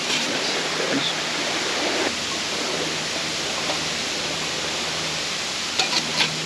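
Steady rushing noise, like flowing water or wind, with a few light clicks near the end as the thin titanium panels of a twig-burner stove are handled and fitted together.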